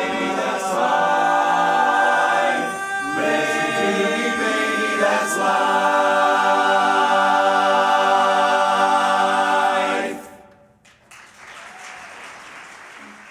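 Men's barbershop chorus singing a cappella in close harmony, ending on a long held chord that cuts off about ten seconds in. Applause starts a moment later.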